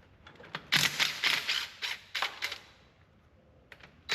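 A series of sharp, irregular metal knocks and clanks from tools working on a truck's rear axle hub, bunched together for about two seconds, then a few lighter clicks near the end.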